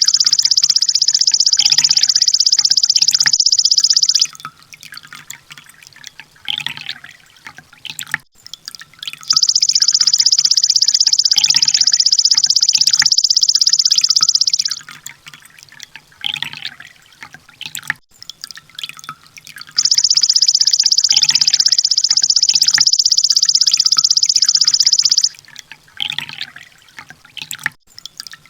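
Sunbird song: three long, loud, high-pitched runs of very rapid repeated notes, each about five seconds, with softer scattered chirps between them. This is the full 'tembakan' rapid-fire song that bird keepers use as a masteran training recording.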